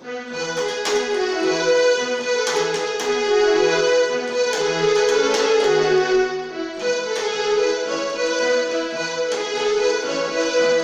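Recorded instrumental violin music: a melody over a regularly repeating bass note, with distinct note onsets throughout.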